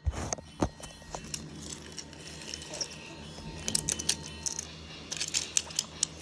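Scattered clicks and knocks, two louder ones in the first second, with short clusters of light jingling rattles about four and five seconds in.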